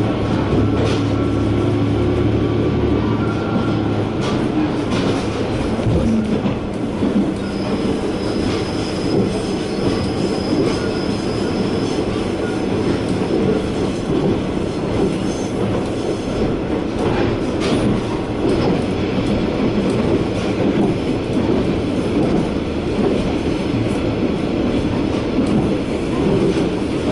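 Inside a KiHa 120 diesel railcar on the move: a steady wheel-on-rail rumble with a few sharp clicks from rail joints. A low engine hum is heard in the first few seconds, and a thin, high wheel squeal runs for a few seconds about a third of the way in.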